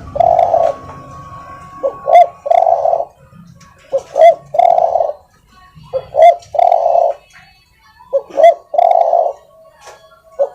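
Spotted dove (tekukur) cooing over and over, about five calls one every two seconds. Each call is a couple of short quick notes and then a longer held coo, the soft-voiced call used as a lure recording to draw wild doves.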